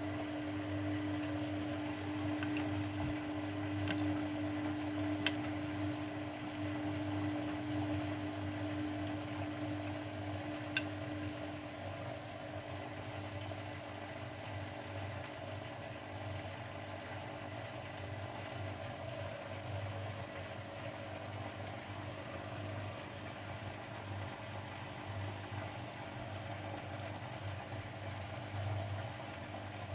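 Grundig washing machine running through its Refresh program: a steady motor hum with a pulsing low drone, and a steady tone that fades out about twelve seconds in, with a few faint clicks early on.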